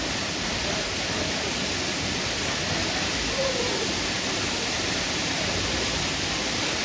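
Steady, even rush of falling and flowing water.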